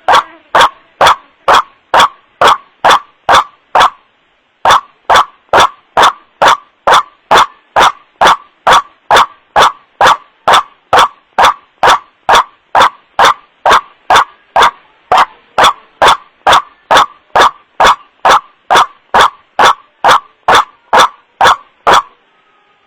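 White-breasted waterhen (kuruak) 'wak-wak' call, played as a lure recording: short loud notes about two a second, with a brief break about four seconds in. The sound is boosted to the point of clipping, giving each note a harsh clicky edge.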